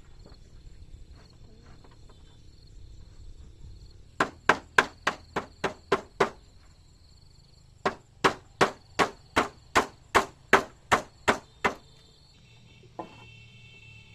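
A hammer driving nails into wood in two runs of quick, even blows, about eight and then about a dozen, roughly three a second, with a short pause between.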